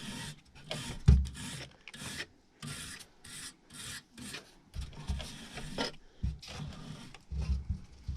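Stiff plastic brush scrubbing caked dirt off a clogged RV air conditioner in quick scratchy strokes, about two to three a second, with a few dull bumps against the unit.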